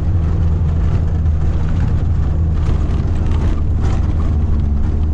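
Motor vehicle engine running at a steady speed, a continuous low drone.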